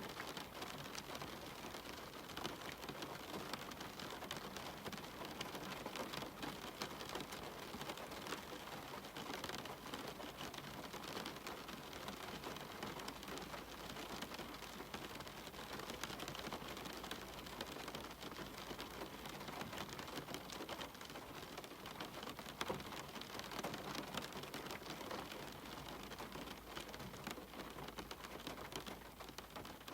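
Steady rain falling, a continuous hiss dense with fine drop impacts. No thunder.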